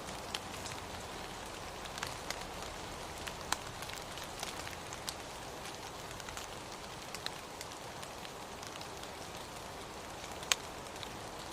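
Steady rain falling, an even hiss scattered with sharp irregular drip ticks, the loudest one near the end.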